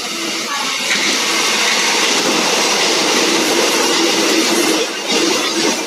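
Electric train running past the platform at close range: a loud, steady rush of wheels on the rails that swells about a second in.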